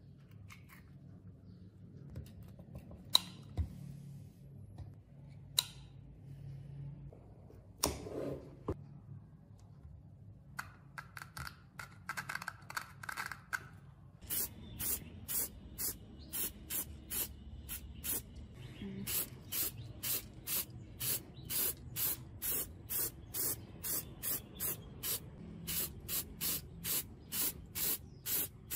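A few sharp clicks and faint handling sounds. Then, from about halfway through, a steady run of short hissing spray bursts, about two a second.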